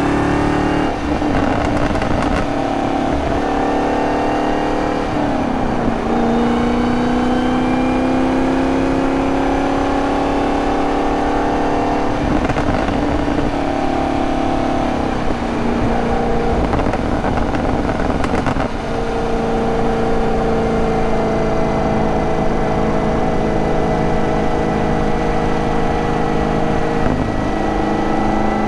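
2023 Camaro ZL1's supercharged 6.2-litre V8 driving hard through a six-speed manual: the engine note climbs slowly and drops back several times at gear changes or throttle lifts, holds fairly steady for a stretch, then climbs again near the end.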